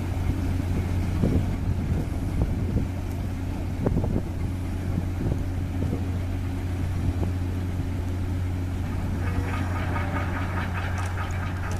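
Cargo-passenger ship's engine running with a steady, even low drone.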